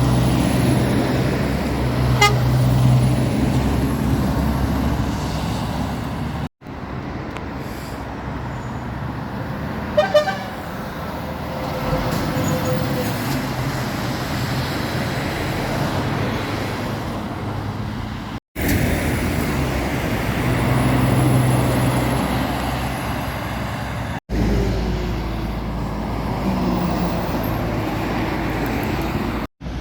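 Lorries passing on a main road, with engine rumble and tyre noise, in several short clips that cut off abruptly. One short horn toot about ten seconds in.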